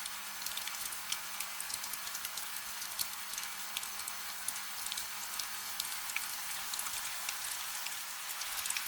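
Steady gentle rain: a dense hiss with many separate drops ticking sharply on a hard surface, and no thunder. A faint steady low hum lies underneath.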